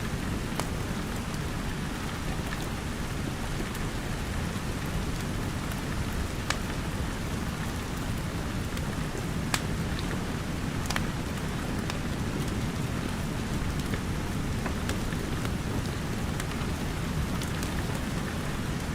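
Steady, dense rain, with a few sharp crackles from a wood fire scattered through it.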